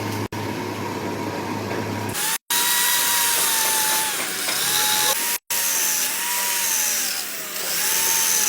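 A handheld power tool running at speed, whining, its pitch dipping and recovering repeatedly as it is loaded against the work. Before it, for about two seconds, there is a rougher low hum.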